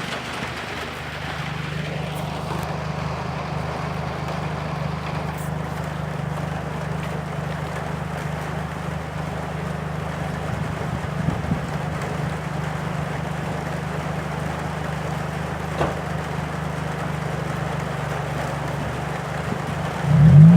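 Toyota 2ZZ-GE 1.8-litre inline-four idling steadily with its muffler unbolted, a fairly quiet, even idle. Right at the end the engine starts to rise into a rev.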